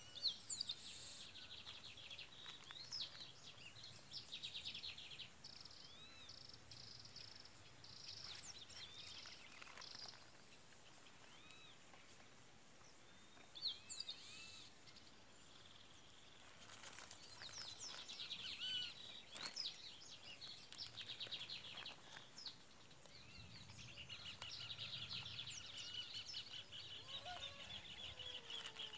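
Several birds chirping and trilling at once, fairly faint, with quick repeated trills and short up-and-down calls; a few short clicks stand out now and then.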